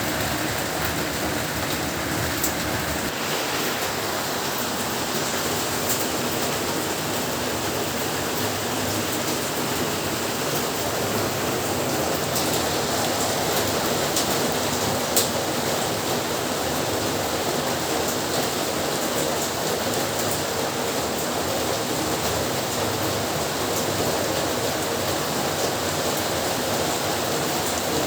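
Heavy rain falling steadily, with a few sharper drop taps standing out above the hiss, the loudest about fifteen seconds in.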